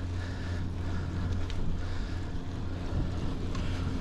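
Steady wind rumble on a chest-mounted action camera's microphone while riding a bicycle, with road noise underneath.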